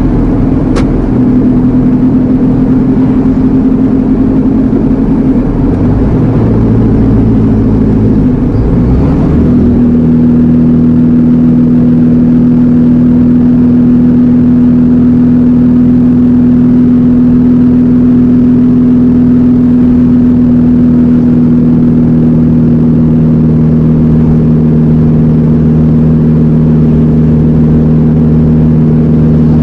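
Iveco Eurocargo lorry's engine heard from the cab while driving. Its note shifts a few times between about six and nine seconds in, then settles into a steady drone.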